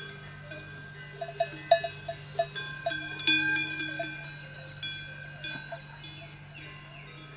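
Livestock bells clanking irregularly, each strike leaving a ringing tone that hangs on. The strikes come thickest in the first few seconds, then thin out, over a steady low hum.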